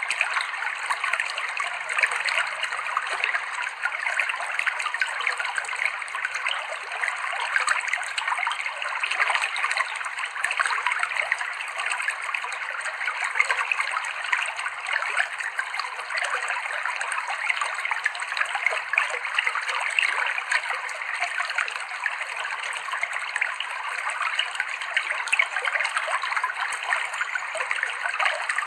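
River water flowing over rocks, a steady babbling rush full of small splashes and trickles.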